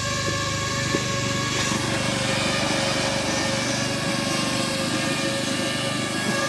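Quadcopter drone's propellers giving a steady, high whine, with a low rumble underneath and a rising hiss joining in about two seconds in.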